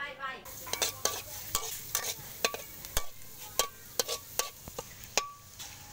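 Minced garlic sizzling in hot oil in a metal wok, with a metal spatula scraping and knocking against the wok in quick, irregular strokes. The sizzle starts about half a second in and stops just before the end.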